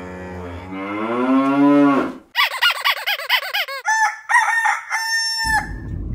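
Farmyard animal sound effects: a cow-like moo rising in pitch, then quick repeated chicken clucks and crowing-like calls. Near the end it gives way to a low steady engine rumble inside a car.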